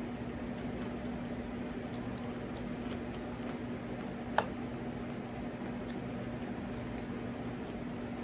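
Quiet close-up chewing of fried chicken, with faint mouth clicks and one sharp click about four seconds in, over a steady low hum.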